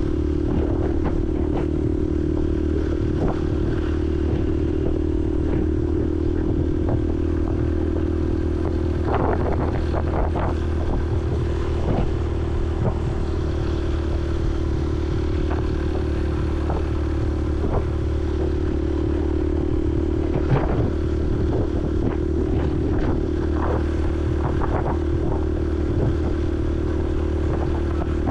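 Honda CRF150L's single-cylinder four-stroke engine running at a steady speed while riding, heard from a helmet-mounted camera. Scattered short clicks and rattles sound over it.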